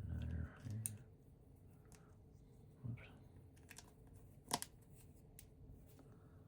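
Vintage LEGO bricks being handled and pressed together: a few scattered sharp plastic clicks, the loudest about four and a half seconds in.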